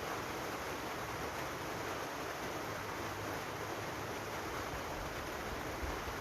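Steady rain: an even, unbroken hiss with a faint low rumble underneath.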